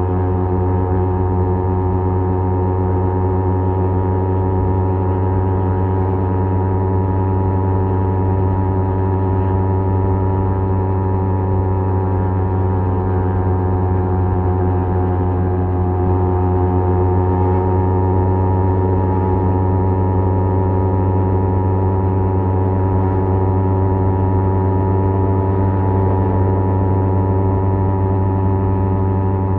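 Kawasaki Z250 with an aftermarket SeaPro muffler cruising at a steady speed; the engine and exhaust hold a steady drone at an even pitch.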